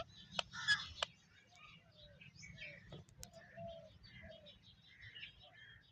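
A parrot making a run of short chirps and squawky calls, loudest in the first second, with a few sharp clicks among them.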